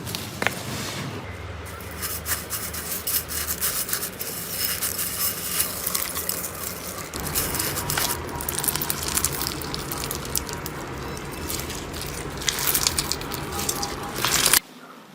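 Slime being squeezed and worked by hand, a dense wet crackling full of small popping clicks. It cuts off sharply near the end.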